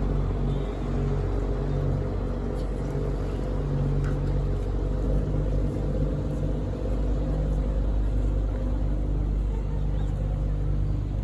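A large engine running steadily: a constant low drone with a steady hum above it.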